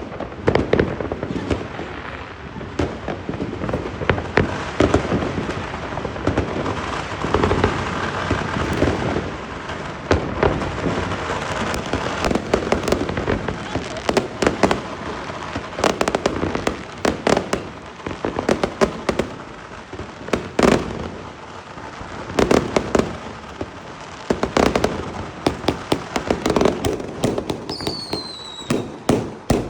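Fireworks going off: a continuous dense run of bangs and crackling, with sharper loud reports scattered through it.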